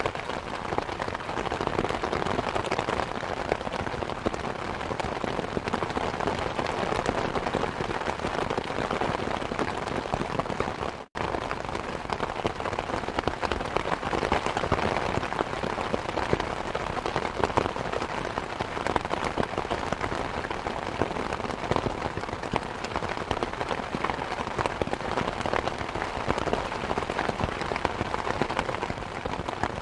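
Steady rain mixed with a crackling fire: an even hiss full of small pops and ticks. The sound drops out for a split second about eleven seconds in.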